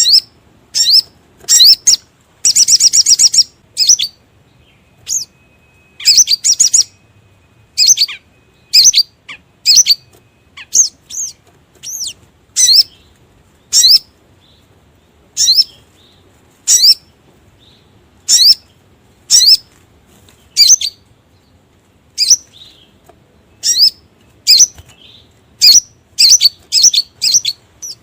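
Sogon (sogok ontong) bird calls played as a lure recording: short, sharp high chirps about once a second, broken by a few quick chattering runs of notes.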